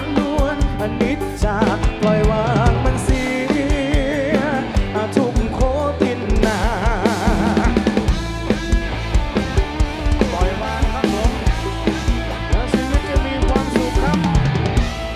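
Live band music: a drum kit keeps a steady beat with bass and snare drum, under a lead melody that wavers in pitch.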